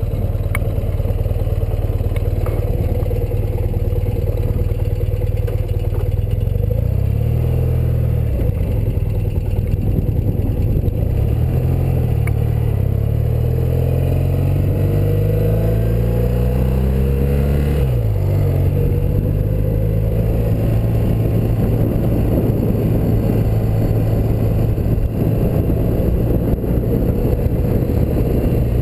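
1984 BMW R100RS's air-cooled flat-twin boxer engine under way: its pitch climbs over several seconds, drops sharply at a gear change a little past halfway, then holds steady.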